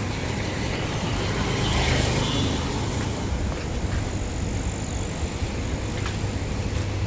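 Steady low rumble and rush of water pouring through a dam's open spillway gates.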